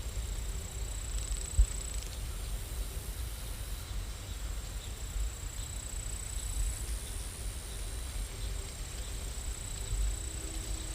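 Steady rain ambience: an even hiss over a low rumble, with a faint high steady whine and one soft low thump about one and a half seconds in.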